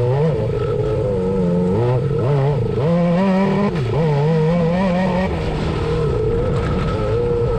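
Suzuki GSX600 inline-four motorcycle engine in a Honda Odyssey buggy running under throttle, its pitch rising and falling in repeated surges as it is ridden.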